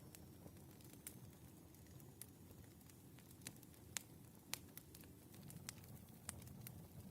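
Firewood burning: a faint low rumble of the fire with scattered sharp crackles and pops, the loudest two about four and four and a half seconds in.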